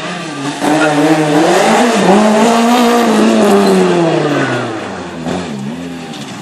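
Renault Clio rally car's four-cylinder engine at full throttle going by, its pitch rising and dipping with quick gear changes, then falling in a long glide as it moves away and gets quieter.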